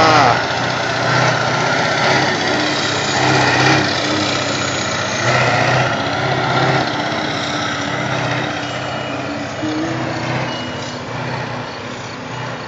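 A show truck's engine running along the straight, its low hum swelling and easing every second or two over a steady rush of noise.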